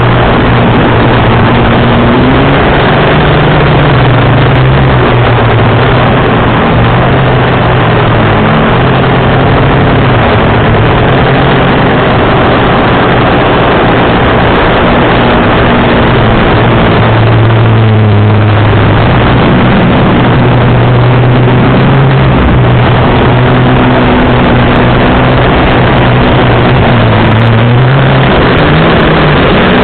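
450-size FPV quadcopter's motors and propellers buzzing loudly under heavy wind rush, the motor pitch stepping up and down with the throttle.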